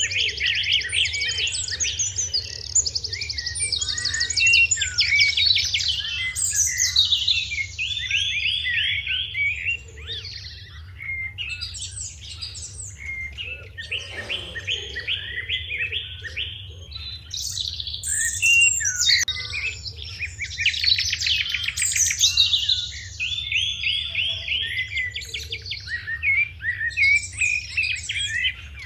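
Sparrows chirping in a busy, overlapping chorus of short chirps and quick rattling runs of repeated notes. A low steady hum runs underneath.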